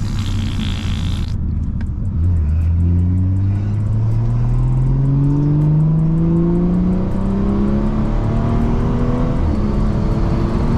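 BMW 340i's B58 turbocharged inline-six, heard through an aftermarket Valvetronic axle-back exhaust with the resonators deleted, accelerating with its pitch rising steadily for several seconds before levelling off. A short hiss comes in the first second.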